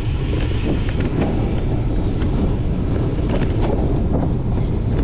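Wind buffeting a moving microphone: a steady low rumble with a few faint clicks.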